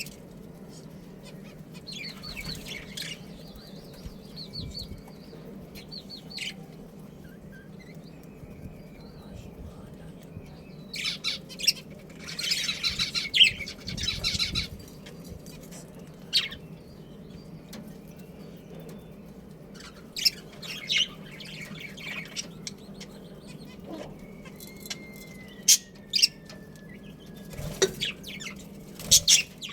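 Budgerigars chirping and chattering in short scattered bursts, with a longer run of busy chatter about halfway through, over a steady low hum.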